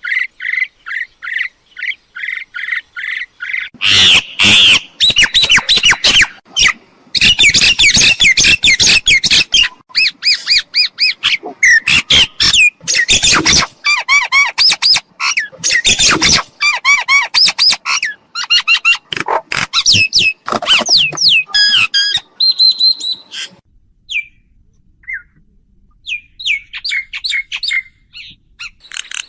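Mynas calling: a softer repeated call, then from about four seconds in a loud, dense run of harsh squawks and chattering notes, which thins to scattered whistled notes after about 23 seconds.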